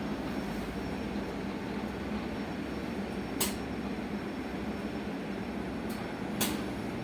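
Cabin of a moving electric bus: steady road and tyre rumble with a low hum. Two sharp clicks or knocks come about halfway and again near the end.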